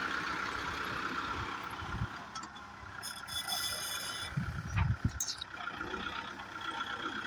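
Kubota tractor's four-cylinder turbocharged diesel engine running steadily, with a short hiss about three seconds in and a few low thumps around the five-second mark.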